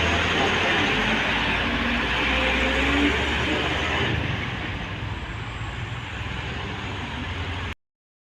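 A heavy vehicle, a bus or truck, passing close by: a steady rumble of engine and tyre noise that fades away over the second half, then the sound cuts off abruptly near the end.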